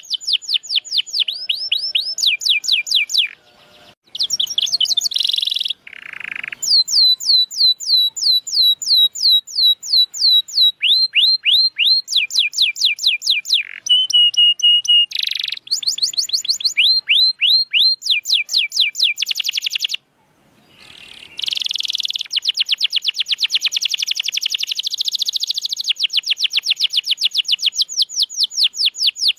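Domestic canary singing: long, fast trills of repeated downward-sweeping notes, moving from one trill to the next with a few buzzier notes mixed in. The song breaks off briefly about 4 and 20 seconds in.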